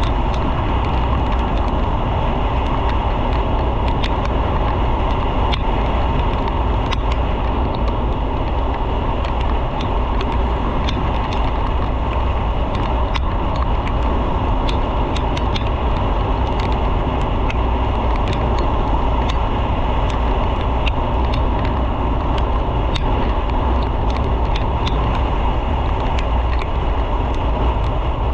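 Motorcycle under way on the road: steady engine and wind rush on the microphone, with a deep rumble and scattered faint ticks.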